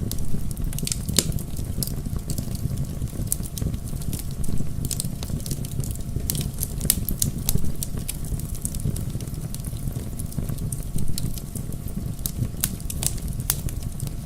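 Bonfire burning: a steady low rush of flames, with frequent sharp, irregular crackles and pops from the burning logs.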